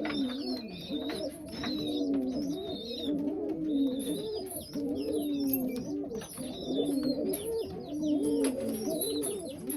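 Several domestic pigeons cooing, their coos overlapping one after another, with thin high chirps above them.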